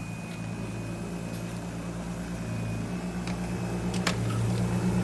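A steady engine hum that slowly grows louder, with a few light clicks.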